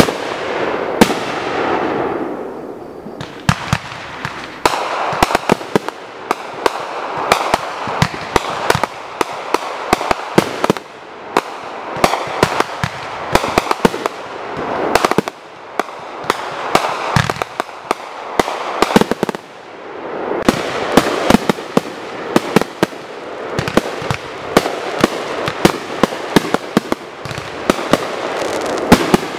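Consumer multi-shot fireworks cakes firing in rapid succession: dozens of sharp bangs as shots launch and burst, over a continuous crackling hiss that swells and dips every few seconds.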